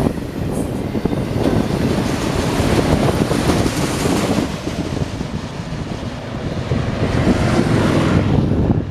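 BNSF autorack freight cars rolling past close by: steady low noise of steel wheels on rail, with wind buffeting the microphone.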